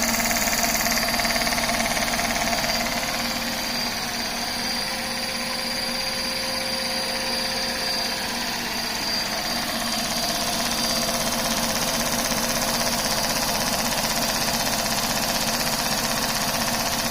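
LEGO one-cylinder oscillating vacuum engine running steadily at speed, its piston and parts clattering in a fast, even rhythm. It is powered by a vacuum cleaner's suction, whose motor whine runs along underneath.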